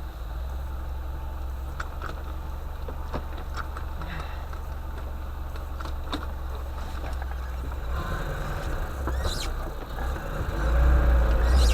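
UAZ-452 'Bukhanka' van engine running steadily, with scattered clicks and knocks, growing louder for a moment near the end.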